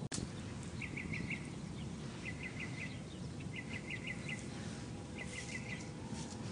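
A small bird calling in repeated runs of four or five quick chirps, a run about every second and a half, over steady outdoor background noise.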